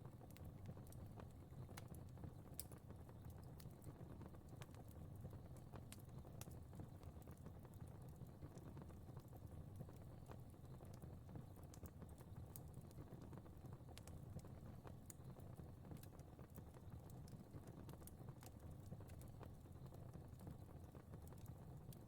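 Faint crackling fire: irregular sharp pops and crackles over a steady low rumble.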